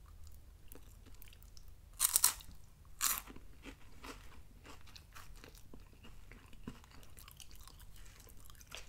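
Sugar-free lemon wafer cookies being bitten and chewed close to the microphone: two sharp crunches about two and three seconds in, then soft, quiet chewing. The wafers are a little stale, with not much crunch left.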